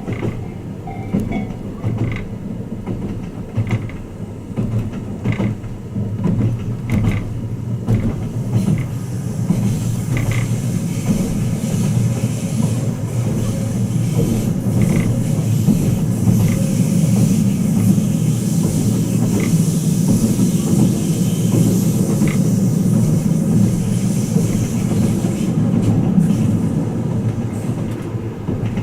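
Twilight Express Mizukaze train running, heard from inside a passenger room: a steady low rumble with scattered clicks of the wheels over rail joints. About nine seconds in, the running noise grows louder and a high hiss joins it.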